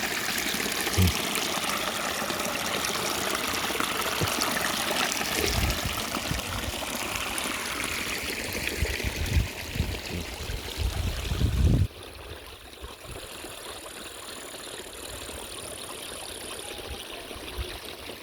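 Water running from a spring, a steady rushing trickle with low rumbles over it; about 12 seconds in it drops suddenly to a quieter rush.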